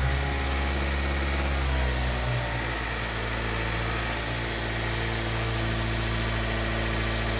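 2014 Mazda 3's 2.0-litre four-cylinder engine held at a steady throttle of about 2,000 rpm, running evenly after new spark plugs were fitted to cure a cylinder 2 misfire.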